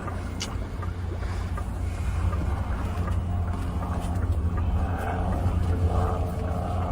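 BYD Yangwang U8 moving through choppy water: a steady low rumble with wind and water noise, and a faint hum coming in after about five seconds.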